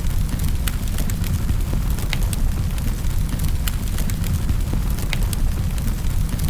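Fireplace fire crackling: a steady low rumble with scattered, irregular sharp snaps and pops.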